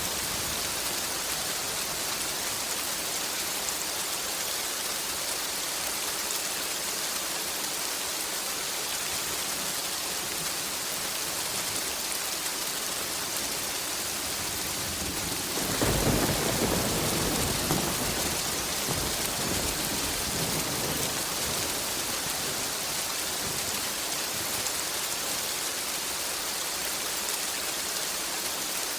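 Steady heavy rain hissing, with a roll of thunder about halfway through that swells quickly and rumbles away over several seconds.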